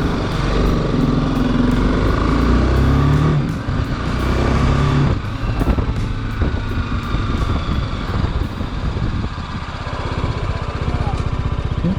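Motorcycle engine revved a few times in the first five seconds, then settling into a steady idle with even exhaust pulses.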